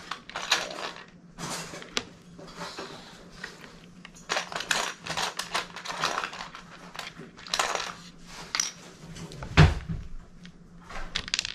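Loose plastic Lego bricks clattering and clicking as hands rummage through a pile of pieces, with one heavier thump about nine and a half seconds in.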